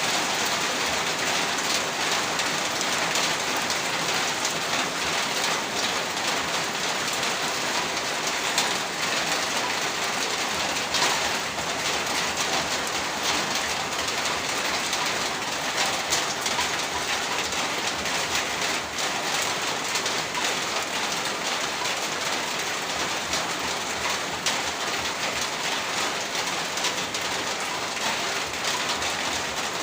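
Heavy rain falling steadily, a dense even hiss of drops with fine ticks of individual drops striking surfaces.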